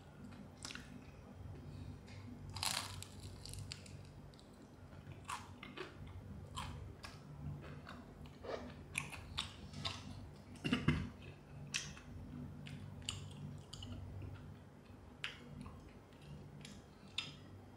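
A person biting and chewing crispy fried chicken up close, with irregular crunches and wet mouth sounds over a steady low hum.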